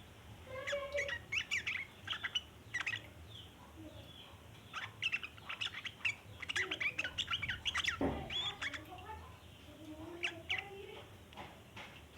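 Yellow-vented bulbul (trucukan) giving its long, rapid chattering call (ngeriwik) in several bouts of quick high chirps, the longest in the middle.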